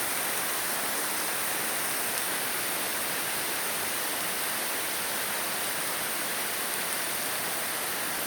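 Heavy downpour: a steady hiss of torrential rain falling.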